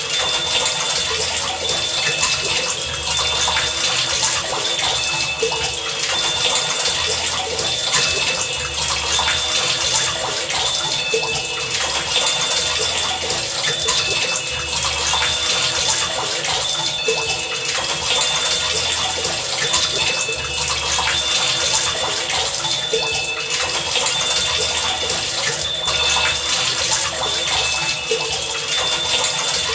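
Heavy rain pouring steadily, with short high ringing tones recurring throughout and a low pulse coming back about every two seconds.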